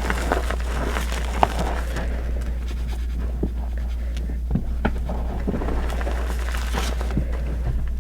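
Reformed gym chalk crushed and crumbled by hand: an irregular run of crunchy, gritty crackles and snaps over a steady low hum.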